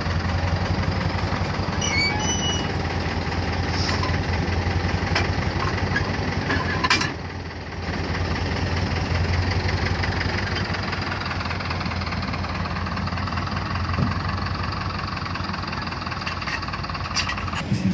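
A large engine of heavy machinery running steadily with a deep hum, dipping briefly about seven seconds in.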